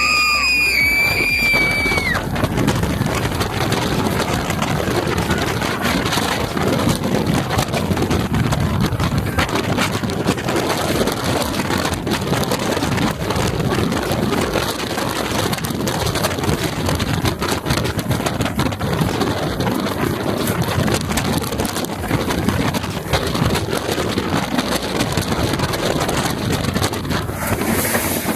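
Titan steel hyper coaster's train running at speed, heard from a seat mid-train: a steady rush of wind on the microphone over the train's rumble along the track. A high shriek rises and holds in the first two seconds, then cuts off.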